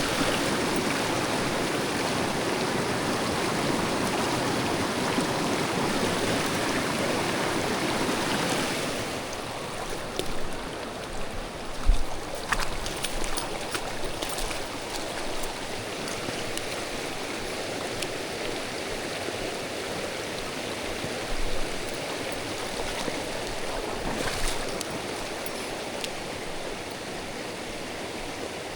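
Mountain stream water rushing over rocks, a steady wash of noise that drops to a softer level about nine seconds in. A few short knocks and clicks sound over it.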